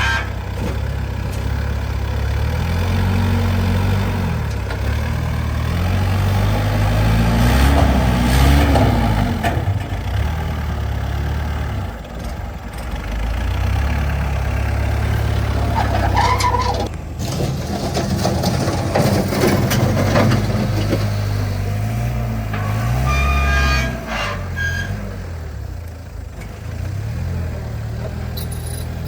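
Truck engine running, its pitch rising and falling several times as it accelerates and eases off. A few short high-pitched tones come through in the second half.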